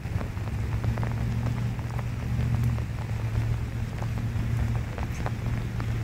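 Steady rain falling, with many individual drops ticking sharply close by, over a steady low rumble.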